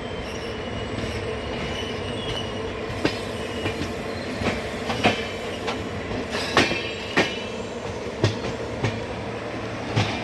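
Passenger train rolling slowly into a station: a steady rumble with a faint steady whine, and from about three seconds in, sharp wheel clacks, often in pairs, as the coaches' wheels cross rail joints.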